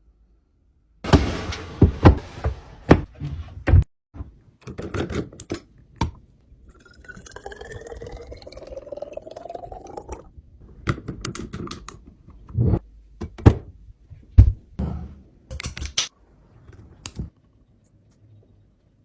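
Food containers and items being handled and set down on fridge shelves: irregular knocks, clunks and clicks. In the middle comes a softer stretch with a tone that rises steadily for about three seconds.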